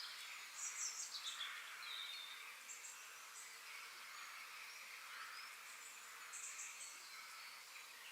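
Faint forest ambience: small birds chirping, with a few quick falling calls about a second in and short high bursts repeating every few seconds, over a steady background hiss.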